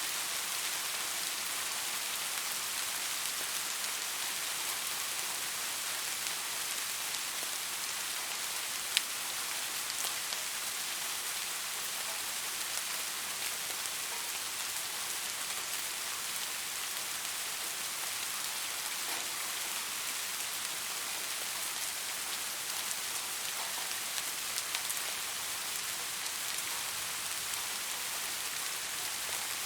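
Steady rain falling: an even hiss with scattered single drops, and one sharp, louder drop hit about nine seconds in.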